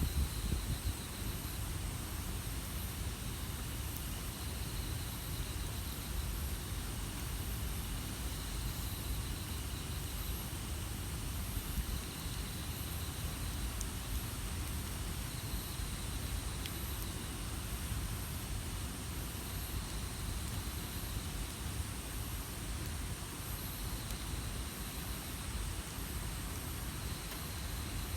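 Outdoor ambience: a steady low rumble and hiss. A high-pitched pulsed chirping comes and goes in short phrases every few seconds.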